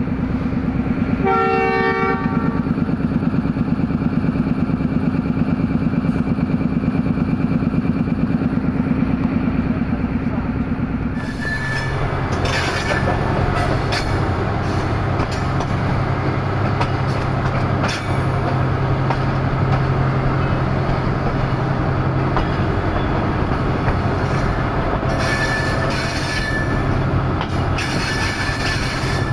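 A departing diesel train: a steady engine hum with a short horn blast about a second in. After a cut about eleven seconds in, the locomotive's engine runs on under the rumble and clatter of wheels over the rails, with a few brief high wheel squeals.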